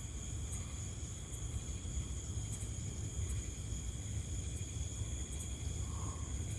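Insects trilling steadily in the background, in two high, unbroken tones, over a low rumbling noise.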